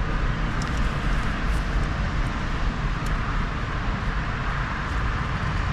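Steady rush of motorway traffic passing close by.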